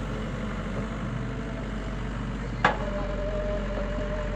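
Heavy diesel engine running steadily. About two and a half seconds in there is a single sharp clank, and after it a steady whine holds.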